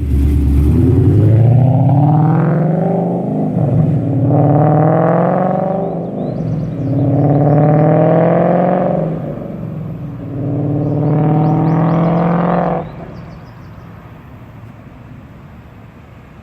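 2014 Ford Mustang GT's 5.0-litre V8 through an aftermarket full exhaust, revved four times with the pitch rising each time before dropping back. About 13 seconds in it falls to a much quieter, steady low rumble.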